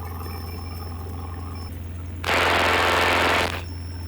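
Steady low drone of a Cessna 172's engine heard through the aircraft audio, with a loud burst of radio static about two seconds in that lasts just over a second.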